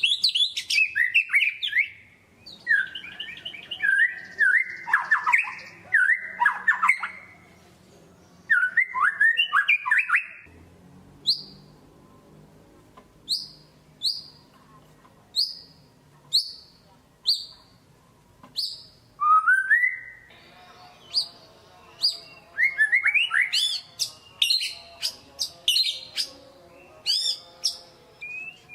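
White-rumped shama (murai batu) in full song: rich, varied whistled phrases, then a run of short, sharp down-slurred notes about one a second, then fast, tumbling phrases again.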